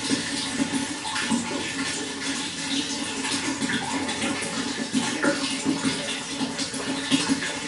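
Running water flowing steadily: a continuous rush full of many small splashes and gurgles.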